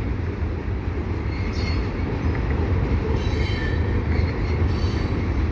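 Freight cars of a CN mixed freight rolling past with a steady low rumble. Short, high wheel squeals come through about every second and a half.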